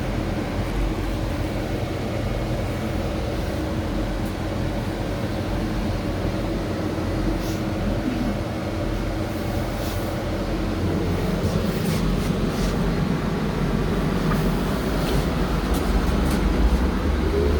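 BKM 32100D trolleybus running, a steady electric hum with road noise and a few light rattles. Near the end a rising whine begins as it speeds up.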